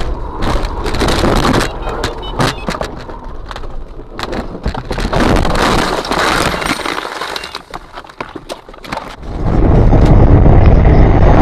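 Vehicle and road noise with many sharp knocks and clicks; about nine and a half seconds in, a loud steady low rumble sets in.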